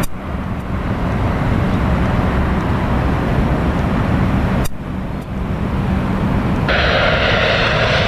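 Jet airliner engines at the airport, a steady rumble with a faint steady hum in it, briefly cutting out twice. About six and a half seconds in, a brighter hiss joins.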